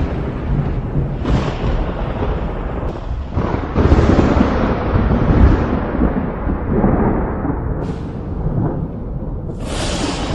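Thunder rolling in a continuous deep rumble that swells louder about four seconds in, with a few sudden sharper claps and a loud crack near the end.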